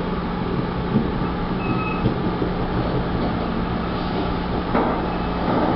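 Steady rumble of a passenger train running along the rails, heard from on board, with a few sharp clicks and knocks from the wheels over the track.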